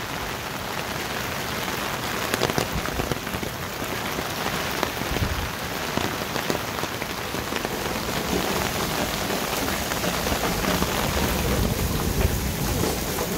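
Heavy rain falling steadily, a dense even hiss with many scattered drop ticks.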